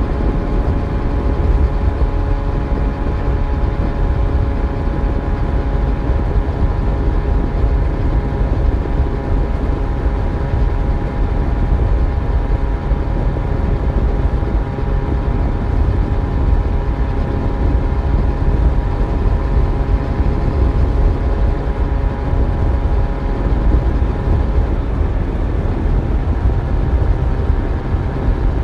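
Yamaha FZ1's inline-four engine running at a steady speed on the move, over a heavy low rumble. Its pitch drops slightly near the end.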